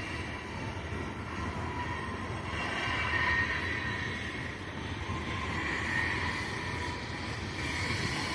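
Distant CSX freight train running: a steady low rumble, with faint high tones swelling and fading twice.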